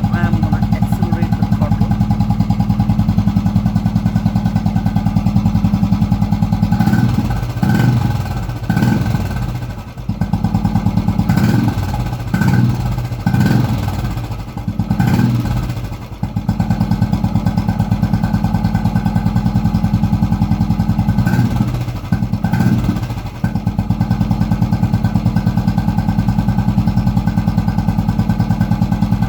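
Royal Enfield Classic 350's single-cylinder engine idling with a steady, even beat through an aftermarket K Indori silencer. The throttle is blipped repeatedly from about seven to sixteen seconds in, and twice more a little past twenty seconds, before it settles back to idle.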